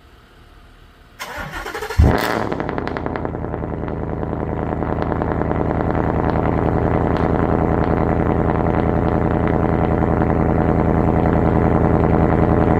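2018 Ford F-150's 5.0-litre V8 with muffler and resonator deleted, cold-started: the starter cranks about a second in, the engine fires loudly at about two seconds, then settles into a steady fast cold idle with a rapid, even exhaust pulse.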